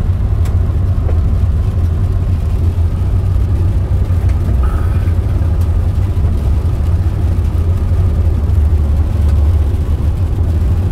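Steady low rumble of road and engine noise inside a moving car's cabin, with rain hitting the car.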